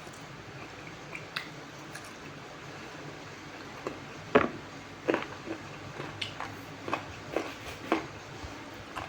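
Person eating: a run of about eight short, sharp wet crunches and clicks while chewing, starting about four seconds in, over a steady background hiss.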